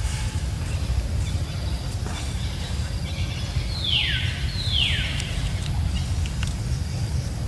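A bird calls twice, about a second apart, each call a quick falling whistle, over a steady low rumble.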